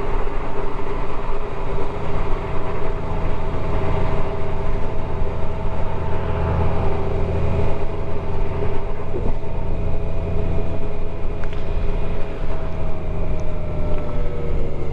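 Motorcycle engine running steadily under way. Its pitch eases down in the last few seconds as the bike slows.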